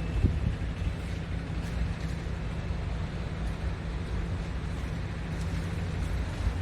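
Scania S500 truck's 13-litre straight-six diesel idling steadily, a low rumble, with a brief thump just after the start.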